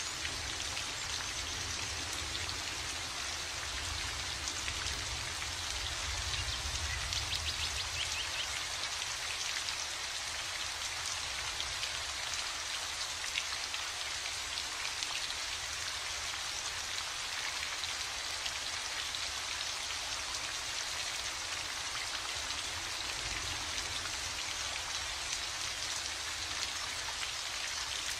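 Steady heavy rain: a dense, even hiss of countless falling drops with a low rumble underneath.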